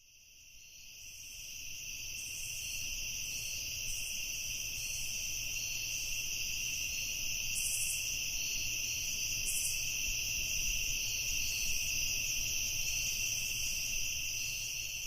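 Crickets chirping in a steady, continuous chorus, fading in over the first couple of seconds.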